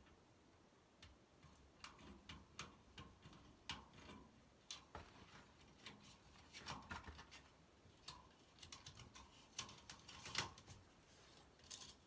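Faint, irregular clicks and crinkles of a flexible vent duct being worked over the end of a vent pipe.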